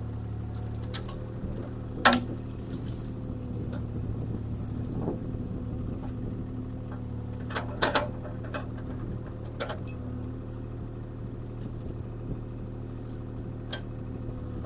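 CAT 303C CR mini excavator engine running steadily while the machine works a tree, with several sharp knocks and cracks over it. The loudest knock comes about two seconds in, and a cluster follows near eight seconds.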